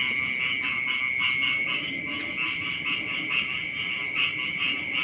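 A dense chorus of frogs croaking in a rice paddy, the calls repeating rapidly a few times a second over a continuous high trill.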